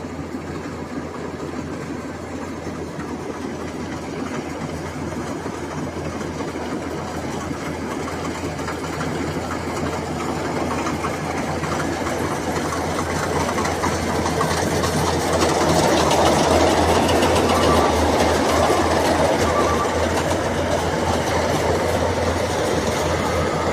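Rice combine harvester running, its engine and threshing works making a steady rattling drone. It grows gradually louder and is loudest a little past halfway, then eases slightly.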